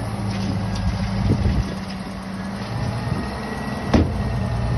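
Tipper truck engine running steadily, with a single sharp knock about four seconds in.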